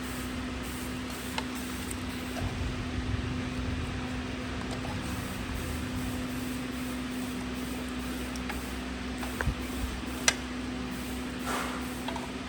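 A steady machine hum under a faint hiss, with a few light clicks and taps; the sharpest click comes about ten seconds in.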